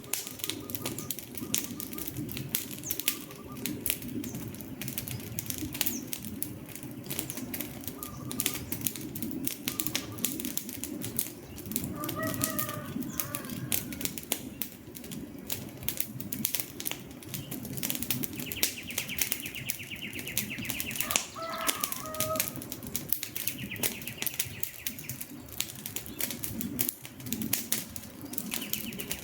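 Wood fire crackling steadily with constant pops and snaps. A few short bird calls come through now and then, about twelve seconds in and again a little past twenty seconds.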